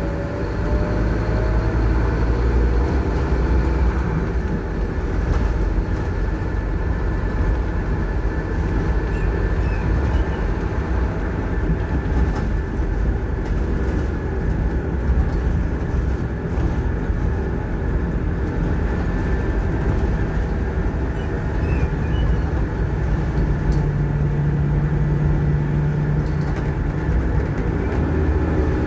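Scania K230UB Wright Solar single-deck bus under way, heard from inside the saloon: diesel engine running with steady road and rolling noise.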